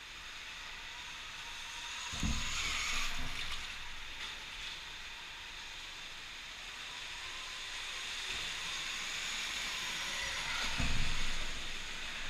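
Electric dirt bike running on an indoor dirt track: a steady hiss with a faint steady motor whine, broken by two heavy thumps, one about two seconds in and one near the end.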